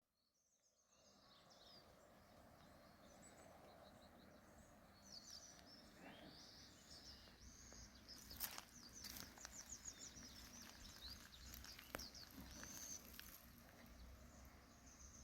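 Faint outdoor ambience fading in: small birds chirping and twittering repeatedly over a low steady background, with a few sharp clicks.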